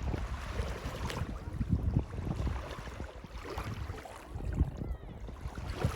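Wind gusting on the microphone in an uneven low rumble, over the wash of surf.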